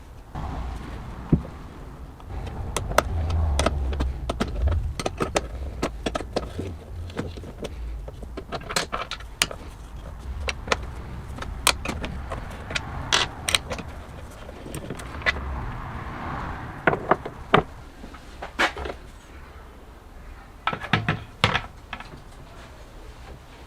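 Small metal parts and hand tools being handled: irregular sharp clicks, clinks and light knocks over a low rumble.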